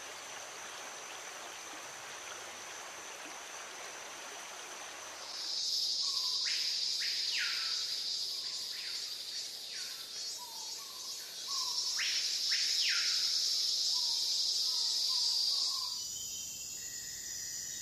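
Faint hiss for a few seconds, then a loud, steady high-pitched insect chorus, like crickets or cicadas, with a bird repeatedly giving short whistles that fall in pitch. Near the end the chorus drops to a quieter high hum.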